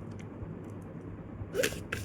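A sheet of paper being folded by hand: faint rustles, then a louder, brief crinkle about one and a half seconds in as the fold is pressed.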